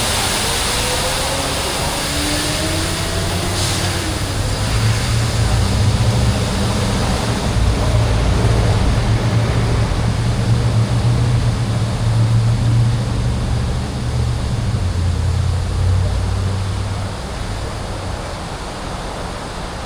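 Road and wind noise on a moving e-bike with passing street traffic. A strong low rumble comes in about four seconds in and fades near the end.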